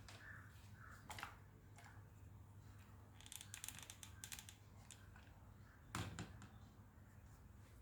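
Faint handling at a craft table: a quick run of small snipping clicks around the middle, typical of scissors cutting craft foam sheet, with a soft tap about a second in and a light knock near the end.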